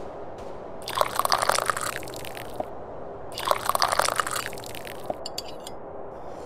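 Tea being sipped with a loud slurp, twice, each sip lasting about a second and the two about two and a half seconds apart. A short run of clicks follows about five seconds in.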